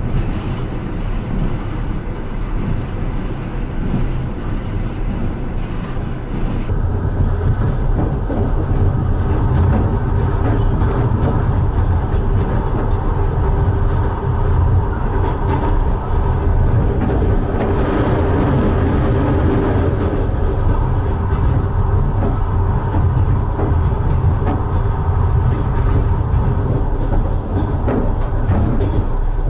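Long-distance passenger train running at speed, with the steady rumble of wheels on the rails. About seven seconds in, the sound turns louder and deeper.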